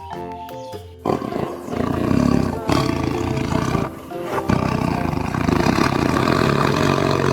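Tiger roaring, two long rough roars one after the other, over light background music.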